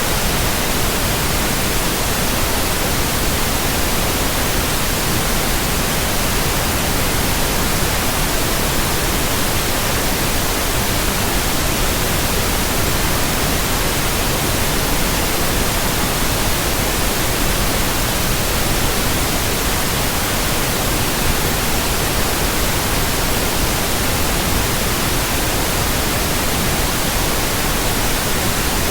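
Steady synthetic white noise: an even, unchanging hiss spread across all pitches, with no rhythm or breaks.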